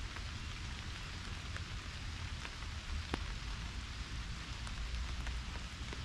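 Pouring rain falling steadily, with single drops striking close by as sharp ticks, one louder tick about three seconds in, over a low rumble.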